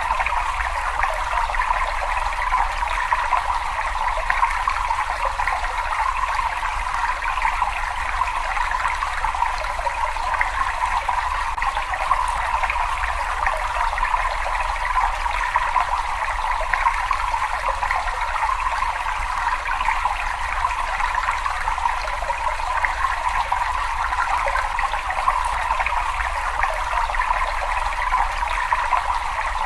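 Water running and trickling in a steady, unbroken flow.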